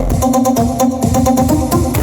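Electronic dance music with heavy bass, played loud through a sound-horeg rig of stacked subwoofers during a sound check.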